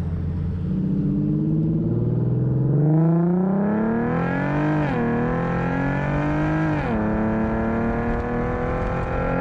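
Infiniti Q50 with its muffler deleted, exhaust running loud as the car accelerates: the pitch climbs, drops briefly twice as it shifts up, and rises again.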